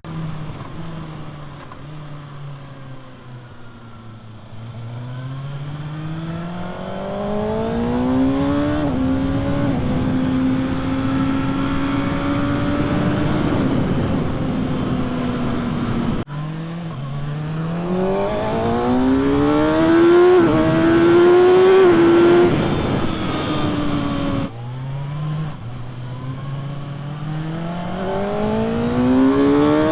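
Kawasaki ZX-6R 636's inline-four engine pulling hard, its pitch climbing with brief dips at the gear changes and holding steady for a few seconds. The pitch drops suddenly twice, then starts climbing again.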